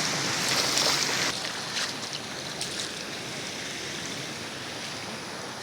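Steady rush of a river running high and fast after heavy rain. The hiss drops a little about a second in.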